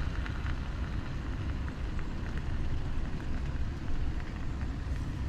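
Wind buffeting the microphone in a steady, uneven rumble, over a continuous hiss with faint scattered ticks.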